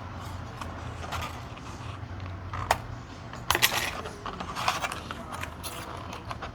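Scattered light clicks and metallic taps from thin nickel strips being handled and fitted on a bench, a few sharper ones in the middle, over a faint low hum.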